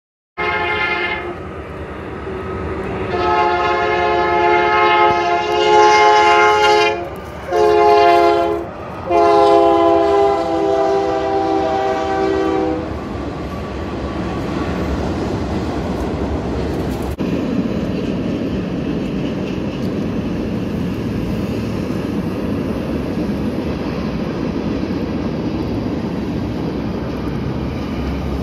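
Freight train's multi-note air horn sounding in long blasts, with a short blast between them. For the second half it gives way to the steady rumble and rattle of the freight cars rolling past.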